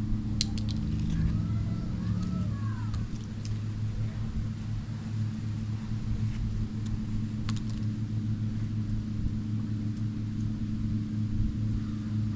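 A motor running steadily with a low, even hum, with a few faint high chirps and light clicks over it.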